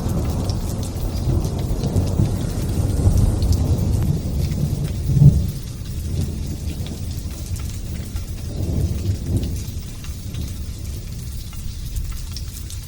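Rolling thunder rumbling low over light, steady drizzle. The rumble peaks sharply about five seconds in, swells again a few seconds later, then fades, leaving the patter of rain.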